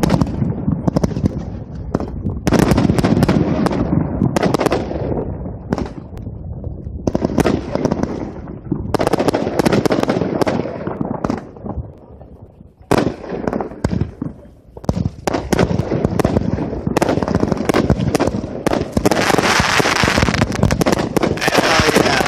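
Consumer firework cakes firing a rapid string of shots and aerial bursts, with a short lull about halfway through and a dense crackling barrage near the end.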